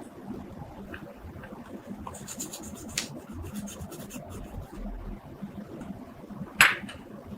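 Light scratching and rubbing with scattered small clicks, a quick run of fine ticks a little over two seconds in, and one sharp, loud click near the end.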